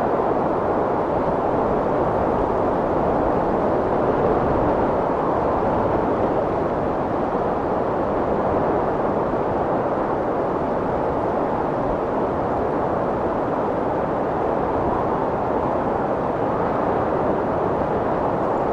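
Strong wind blowing steadily as a dense rushing noise, with slow gentle swells.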